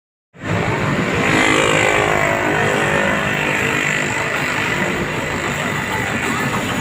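Engine of a septic siphoning truck running steadily, starting abruptly just after the beginning, with a thin steady high whine above it.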